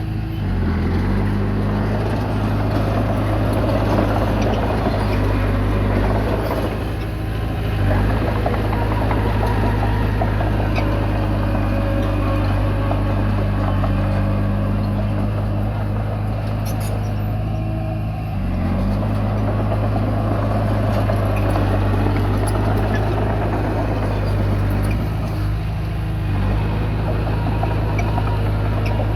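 Komatsu D20P bulldozer running steadily while pushing soil, its diesel engine note constant under a rattling clatter that swells and eases. The engine pitch dips briefly about a second in and again a little past halfway, as the load changes.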